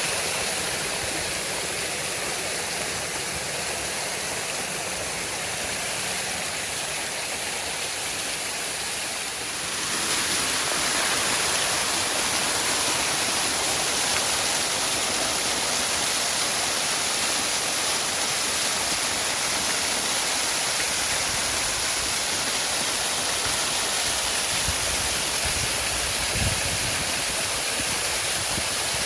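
Waterfall rushing steadily. About a third of the way in it becomes louder and hissier, and a few faint low thumps come near the end.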